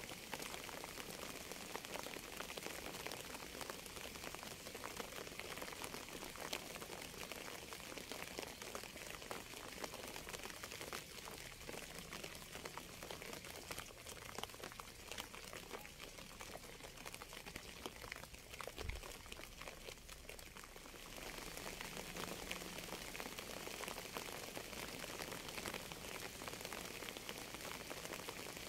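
Steady rain: an even hiss of falling water with many separate drops ticking through it. It eases slightly mid-way and comes back up to full strength about three quarters of the way through.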